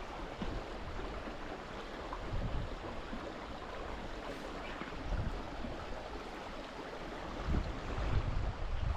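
Small stream's water rushing steadily, with a few dull low rumbles about two and a half, five and eight seconds in.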